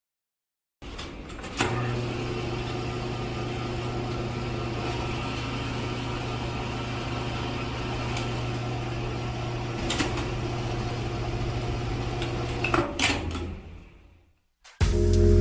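A small electric motor running with a steady hum, starting about a second and a half in and cutting off near the end, with a few light clicks along the way.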